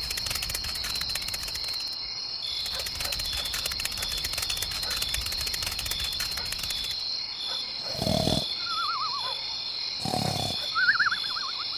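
Insects trilling steadily in a high, fast-pulsing drone. Two short, louder animal calls come about eight and ten seconds in, each followed by a thin, wavering whistled call.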